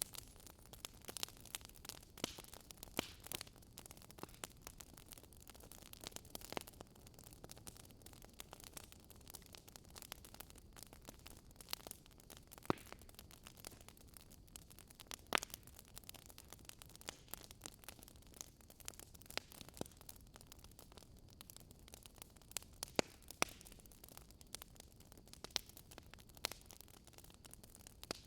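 Wood fire burning in a fireplace, crackling: irregular sharp pops and snaps over a soft, steady hiss.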